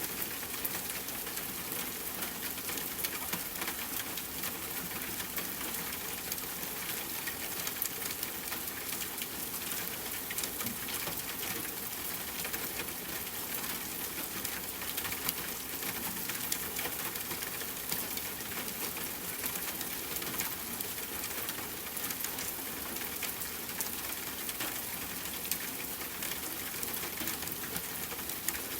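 Steady rain falling: an even hiss of many small drops, with scattered brighter drop ticks.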